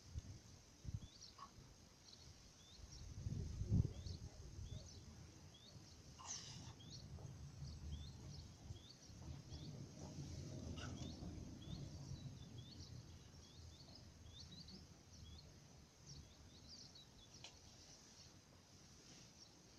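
Small birds chirping faintly and repeatedly, in short falling chirps, with a low rumble that swells about three seconds in and again around the middle.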